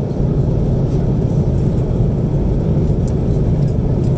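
Steady low roar of airliner cabin noise inside an Airbus A330-300, with a few faint high ticks near the end.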